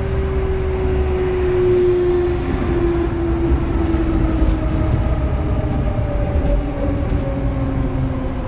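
Running sound under a Kintetsu 3200 series motor car: the early Mitsubishi GTO VVVF inverter and traction motors growl, with several tones gliding slowly down in pitch over the rumble of wheels on rail.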